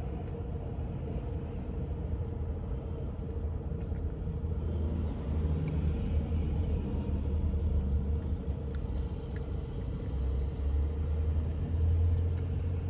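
Low, steady vehicle rumble that swells twice, with a steady hum over it and a few faint clicks.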